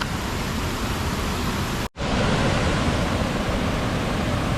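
Steady rush of water pouring through a flooded spillway, cut off for a moment about two seconds in before it resumes.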